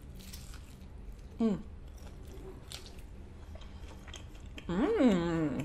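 A person chewing a mouthful of fried birria taco, with faint crunches and wet mouth sounds. There is a short vocal sound about a second and a half in and a longer drawn-out one near the end.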